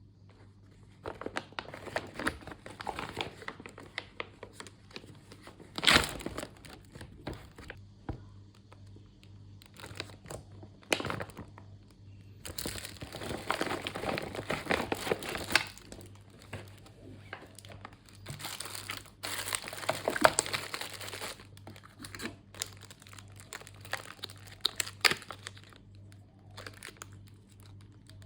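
Plastic ration packaging crinkling and rustling in irregular bursts as it is handled, with a couple of sharper, louder crackles; a faint steady hum underneath.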